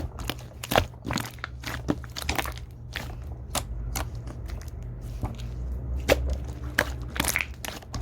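Purple slime being handled and squeezed, making irregular sharp clicks and pops, a few a second, over a steady low hum.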